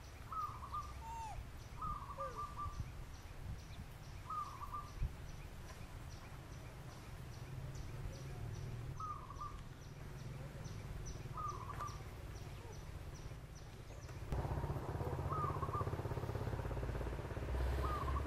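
A bird calling short, repeated notes about every two seconds, with a faster, faint high ticking behind it. A steady low rumble underlies it and grows louder about fourteen seconds in.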